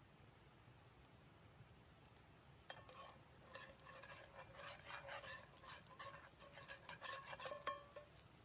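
A quick run of light clinks and scrapes with a faint ringing tone, starting about three seconds in after near silence.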